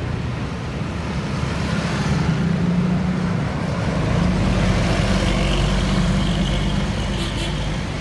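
Heavy truck's engine droning as it drives past on the road, with tyre and road noise, growing louder about halfway through.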